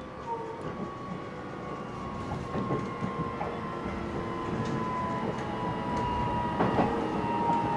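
Electric train heard from inside the carriage as it runs over snowy track: a steady low rumble with a thin motor whine that sinks slightly in pitch, and a few scattered clicks and knocks from under the floor. It grows gradually louder toward the end.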